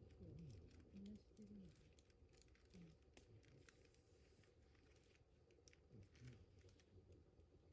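Faint crackling and popping of a wood campfire, scattered ticks at an uneven pace, with a few soft, low murmurs of voices.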